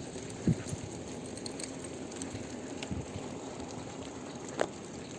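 Bicycle rolling along with a husky running beside it on a seat-post dog leash: steady rolling and rattling noise, two dull knocks, and a short squeak near the end.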